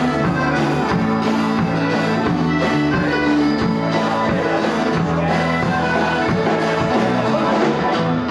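Rock band playing an instrumental passage with no singing: guitar over bass and drums with a steady beat.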